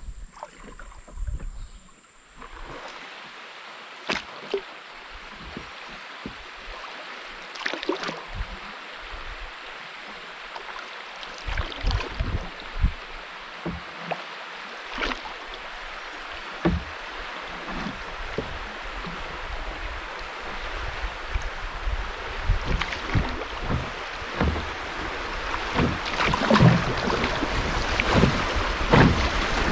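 Canoe on a river: paddle strokes splashing and occasional knocks against the hull over a steady rush of moving water. The rush sets in a couple of seconds in and grows louder toward the end.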